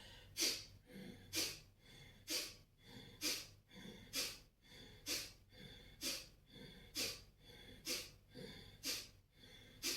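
Kapalabhati breathing: short, forceful exhalations pumped out through the nose, a sharp puff about once a second.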